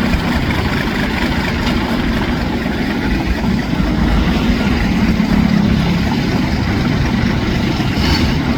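Engine of a homemade mud suction boat running steadily at work, a loud, even drone with no change in speed.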